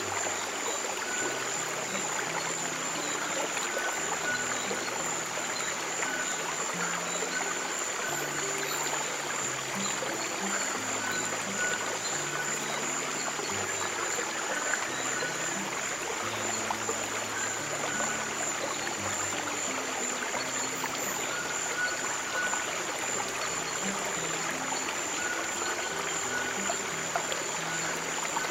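Stream water flowing with a steady trickle and rush, under slow, low sustained music notes that change about once a second.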